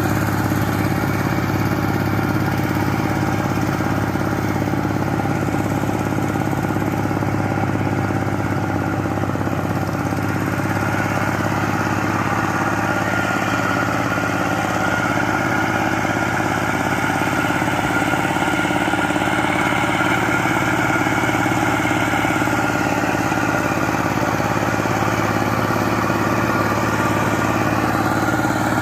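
Power tiller's engine running at a steady speed, with no change in pitch or level.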